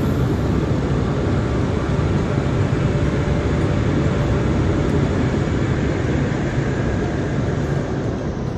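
Automatic car wash machinery running: a steady, loud rushing roar with a low hum underneath, easing slightly near the end.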